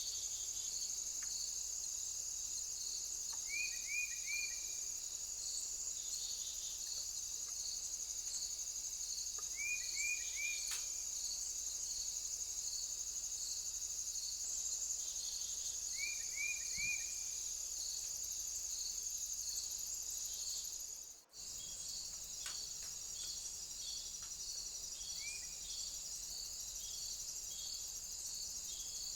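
Steady high-pitched chorus of crickets and other insects, with a second insect pulsing about twice a second and short three-note chirps recurring every six seconds or so. The sound drops out for a moment about two-thirds of the way through, then the chorus resumes.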